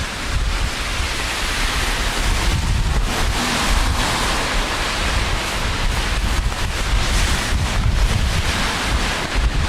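Steady rain hiss with wind buffeting the microphone in an uneven low rumble. The hiss swells a little about a third of the way in and again near the end.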